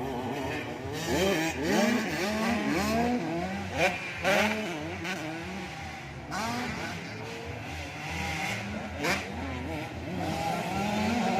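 Several 85cc two-stroke motocross bikes racing, their engines revving up and dropping back over and over with the pitches overlapping. A few brief sharp cracks cut through, the loudest about four seconds in.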